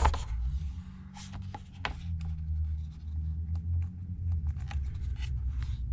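Handling noise on a work surface: scattered small clicks and rubs as an iPad and repair parts are moved about, over a steady low hum.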